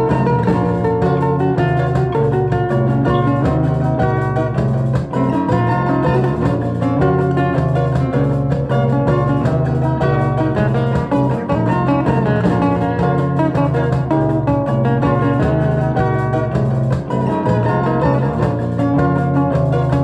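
Instrumental music: guitar playing quickly plucked notes over sustained low bass notes.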